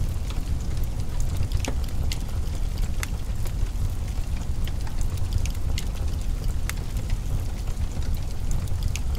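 Wood fire crackling in a fireplace: irregular sharp snaps and pops, a few a second, over a steady low rumble.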